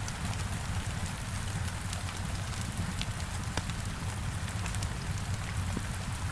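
Heavy rain beating on a window: a steady, even rush with a deep low rumble underneath. Scattered sharp clicks of a crackling wood fire are mixed in.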